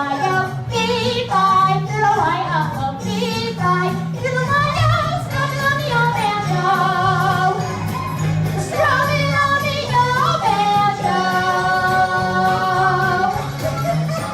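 A song: a woman singing a melody with held notes over an instrumental backing track.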